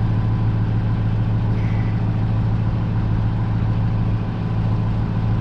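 A machine or engine running with a steady low hum that does not change.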